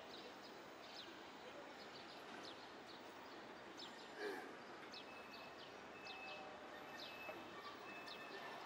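Quiet city-street ambience with small birds chirping throughout in quick, short, falling chirps. A brief louder sound comes about halfway, and short high-pitched beeps repeat in the second half.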